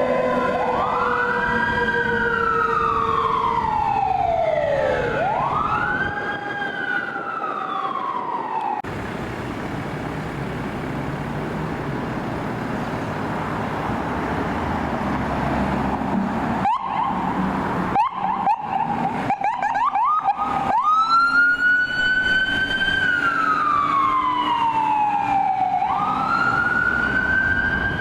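Fire department emergency vehicle sirens on a response run: a wail sweeping up and down, with two sweeps overlapping at first. After several seconds of engine and road noise, a quick burst of rapid yelping chirps comes about two-thirds of the way through, and the slow wail then resumes.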